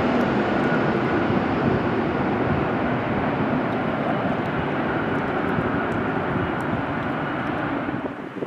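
Jet airliner passing close by, its engines giving a loud, steady rushing roar with a faint whine that slowly fades as the aircraft moves away.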